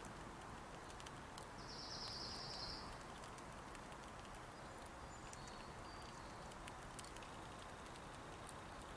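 Quiet outdoor ambience with a steady low background hum. A small bird gives one high, buzzy call lasting just over a second about two seconds in, then a couple of short high chirps around five to six seconds, with faint scattered clicks throughout.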